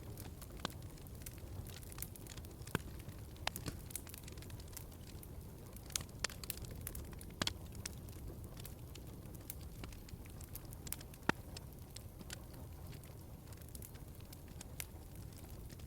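Wood fire crackling in a fireplace: irregular pops and snaps over a low steady rumble, with one sharper pop about eleven seconds in.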